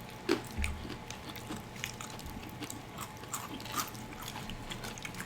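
Chewing and mouth sounds of someone eating fried chicken: scattered soft clicks, crunches and wet smacks.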